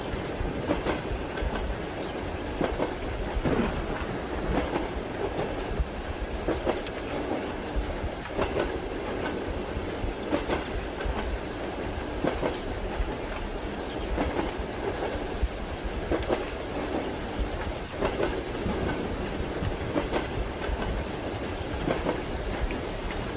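Train wheels clacking over rail joints roughly every two seconds over a steady low rumble, as heard inside a train compartment, with rain noise mixed in.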